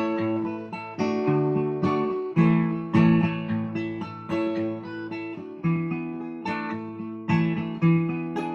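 Acoustic guitar picking an instrumental intro: single notes and chords struck every half second or so, each ringing and fading before the next.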